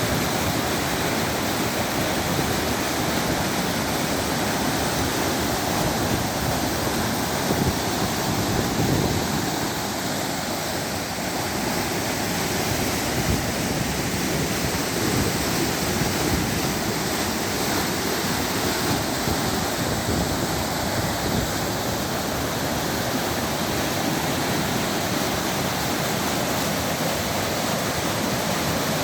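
A 10 hp diesel engine running steadily, mixed with a continuous rush like flowing water.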